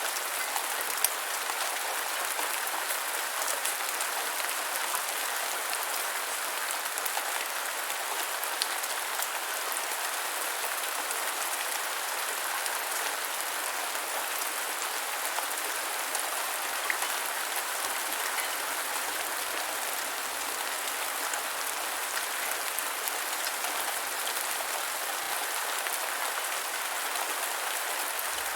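Steady gentle rainfall: an even hiss of rain with scattered individual drops ticking through it.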